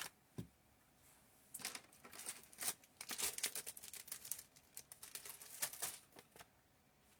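Paper rustling and scraping in quick, crisp bursts as cardstock is handled and repositioned on the work surface.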